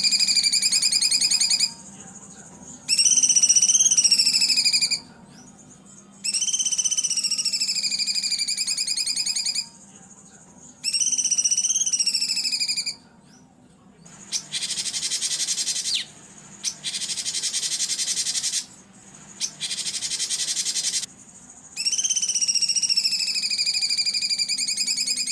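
Songbird song from a masteran training recording: fast, rattling trill phrases about two seconds long, repeated with short gaps. In the middle come three harsher, buzzier phrases.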